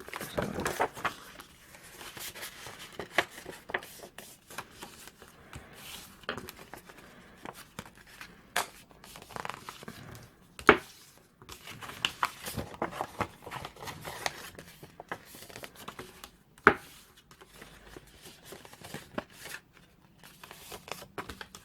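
Patterned card stock being scored along score lines, with short scraping strokes and paper rustling as the sheet is handled and turned, plus a few sharp taps, two of them louder than the rest.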